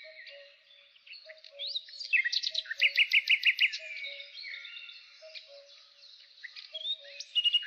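Several birds calling and chirping, with a loud run of evenly spaced chirps between about two and three and a half seconds in. Underneath, a faint low two-note call repeats steadily.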